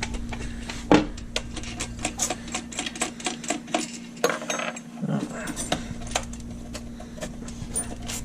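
Socket ratchet and metal tools clicking and clinking irregularly as engine mounting bolts are worked loose, with a steady low hum underneath.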